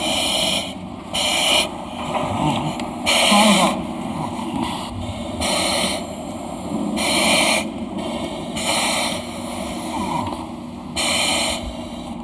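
Rescuers breathing through self-contained breathing apparatus: a hiss about every one and a half to two seconds over steady background noise.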